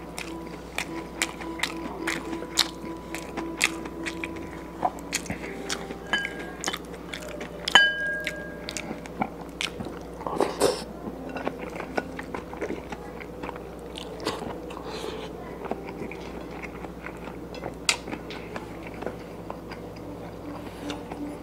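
A person biting and chewing a meal of fried fish and rice eaten by hand, with frequent small crunches and clicks and one louder crunch about eight seconds in.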